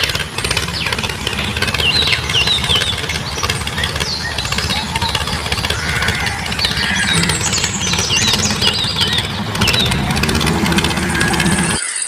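A small engine running steadily with a fast rattle, with short high chirping squeaks over it; it cuts off suddenly near the end.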